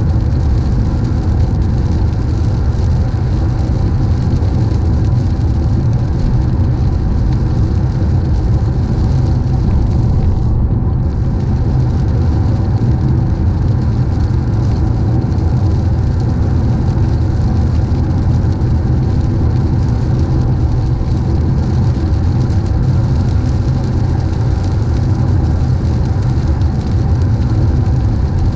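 Car driving on a wet road in the rain: a steady low rumble of tyres and engine with a hiss of spray and rain. The hiss drops out for a moment about ten seconds in.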